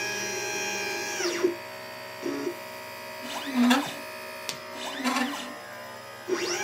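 LitePlacer pick-and-place machine's stepper motors whining as the gantry moves, the pitch rising to a steady tone and falling away as each move speeds up and slows down. One long move at the start, a few short moves in the middle, and another long move beginning near the end, over a steady hum.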